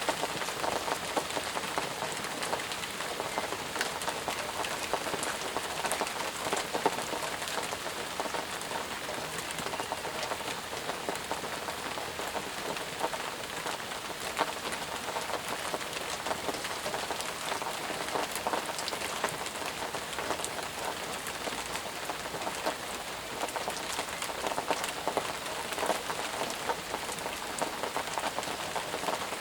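Steady heavy rain falling, a dense even hiss with many individual drops pattering on surfaces.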